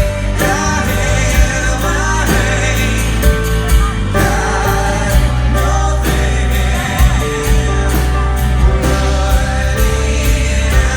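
A live band playing a song with a singer, steady drum hits and a bass line underneath.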